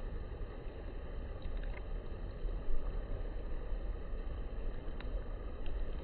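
Steady low outdoor background rumble, with a brief low thump about two and a half seconds in and a faint tick about five seconds in.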